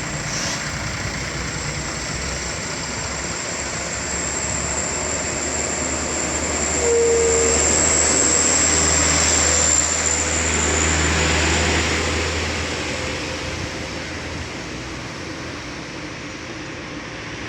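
Heavy sugarcane trucks' diesel engines working hard at full throttle up a climbing bend: a steady deep drone with a thin high whine over it. The drone swells about halfway through and eases off near the end, and a short single tone sounds about seven seconds in.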